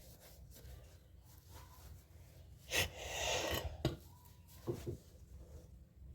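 Quiet handling noises: a brief scraping rustle about three seconds in, followed by a few light knocks.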